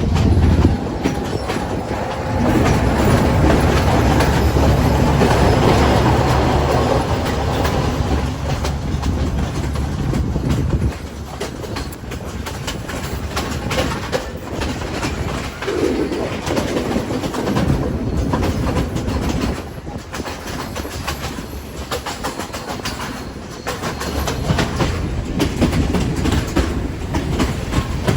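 Train running on the rails: a steady rumble with wheels clicking and clattering over the track, heavier for the first ten seconds or so, then easing a little.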